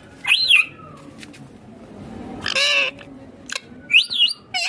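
Indian ringneck parakeet squawking: a short call that rises and falls near the start, a longer harsh squawk about halfway through, and a quick run of high, wavering calls near the end.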